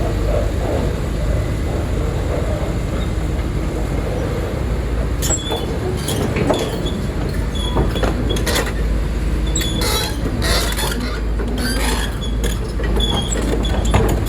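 Heavy construction machinery running with a steady deep rumble, joined from about five seconds in by repeated high metallic squeaks and scrapes, like steel tracks and linkage working.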